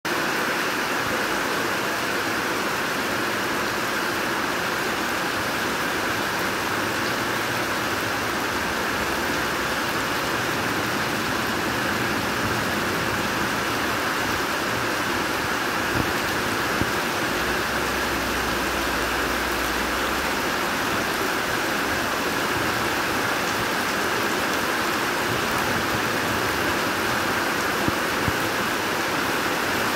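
Steady rain falling, an even hiss of drops splashing onto wet gravel and puddles.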